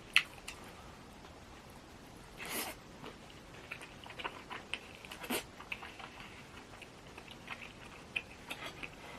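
Close-miked eating sounds: chewing with scattered small clicks and crunches. There is a sharp click just after the start, a short noisy burst about two and a half seconds in, and another sharp click a little past five seconds.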